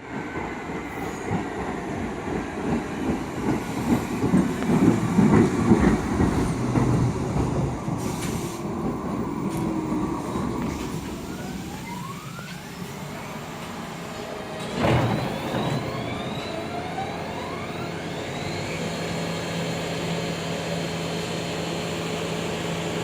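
New York City subway train rumbling through the station, then pulling away with its traction motors whining and rising in pitch. There is one sharp clank about halfway through.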